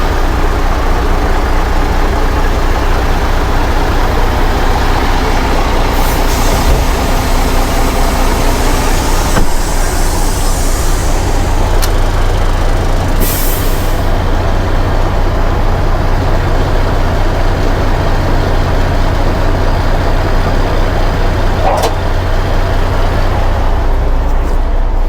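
A heavy truck's diesel engine running steadily at low revs, with several short hisses of compressed air from the brakes; the longest hiss comes about halfway through.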